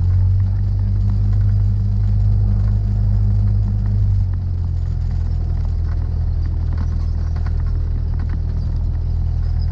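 Cessna 172SP's four-cylinder Lycoming engine and propeller running at low power, with light rattles. The engine note drops to a lower pitch about four seconds in, as the power comes back.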